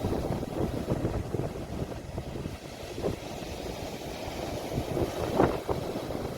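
Ocean waves washing in with wind buffeting a phone microphone, a steady low rumble with a few brief surges, the loudest about five seconds in.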